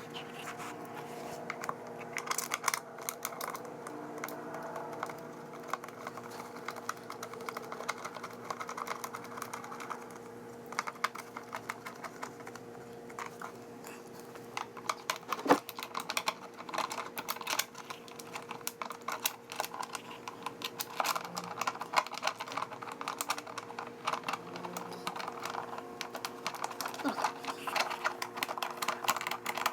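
Irregular runs of light clicks and rattles from small parts being handled, with one sharper knock about halfway, over a steady low hum.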